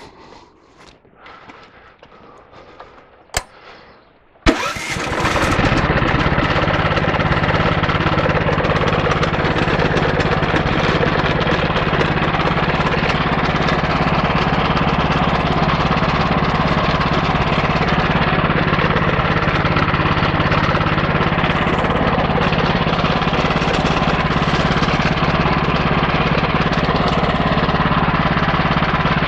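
The homemade bandsaw sawmill's 14 hp 420cc single-cylinder engine starts about four seconds in, after a sharp click, and then runs steadily at an even speed.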